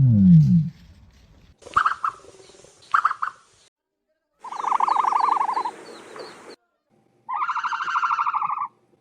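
A deep ostrich boom fades out at the start. Then come higher, buzzy, rapidly pulsed calls: two short ones, a longer one about five seconds in, and another near the end. Faint small-bird chirps sound behind the middle call.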